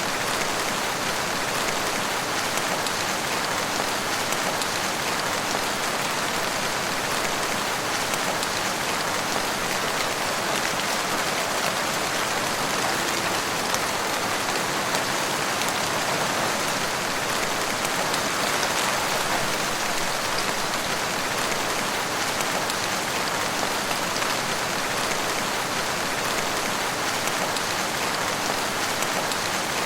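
Steady rain falling in woodland, an even hiss of many drops on leaves and ground, without breaks or thunder.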